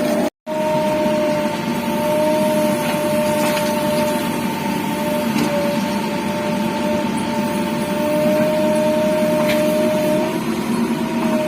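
JCB backhoe loader's diesel engine running steadily under work, with two steady high tones held over the rumble. The sound cuts out completely for a moment about a third of a second in, then resumes unchanged.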